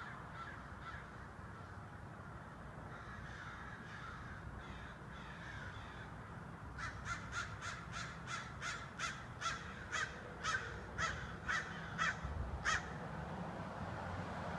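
Birds calling: faint calls at first, then, about seven seconds in, a run of about a dozen short calls at roughly two a second that stops about two seconds before the end.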